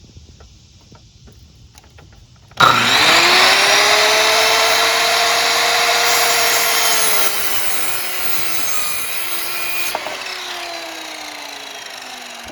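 Electric circular saw starting up about two and a half seconds in and cutting through a wooden 2x4, its motor whine steady over the rasp of the blade in the wood. Around ten seconds in the cut ends and the blade winds down, its pitch falling.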